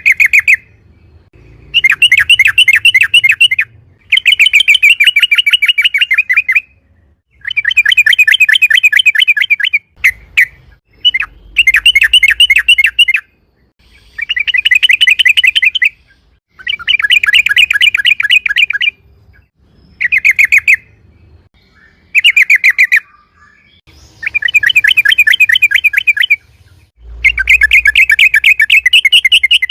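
Trucukan (yellow-vented bulbul) singing loud, fast rolling chatter phrases, each a second or two long of rapidly repeated notes, about a dozen phrases with short pauses between them.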